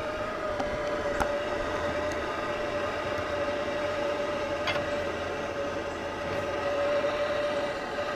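Kubota L235 tractor's diesel engine running steadily with a constant whine, with a few sharp metallic clicks, about a second in and again near five seconds.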